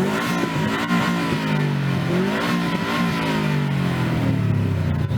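A car engine revved through its exhaust: the engine note climbs and falls twice, easing back down toward idle near the end.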